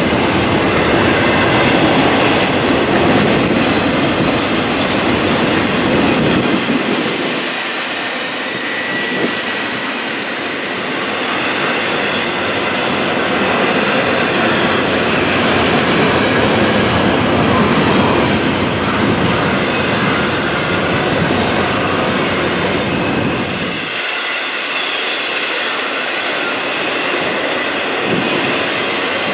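Freight train passing, a steady loud rush of wheel and rail noise from its rolling cars.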